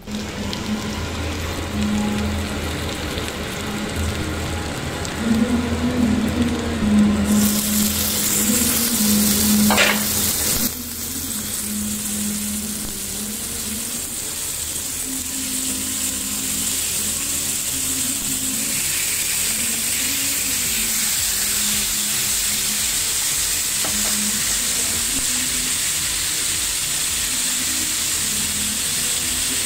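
Oil sizzling in a non-stick pan on a low flame as skewers of marinated pineapple and capsicum are laid in to fry. The sizzle turns louder and hissier about seven seconds in, then settles to a steady sizzle after about eleven seconds.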